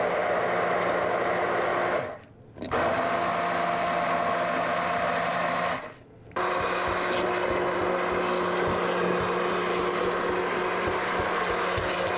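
Electric blender motor running steadily as it purees cooked tomatoes, cherry tomato seeds and all. It stops briefly twice and starts again at once.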